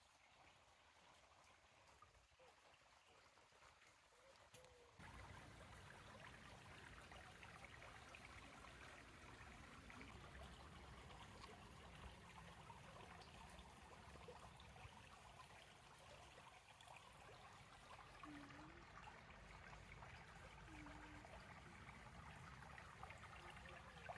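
Faint steady rushing noise that steps up abruptly about five seconds in.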